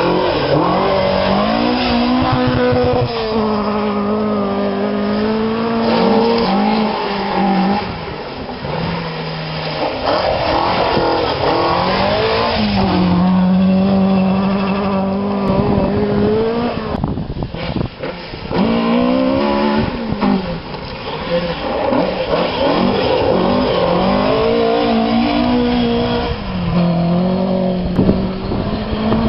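Two-wheel-drive rally car engines driven hard, revving up and dropping back in pitch again and again as the cars change gear and come through.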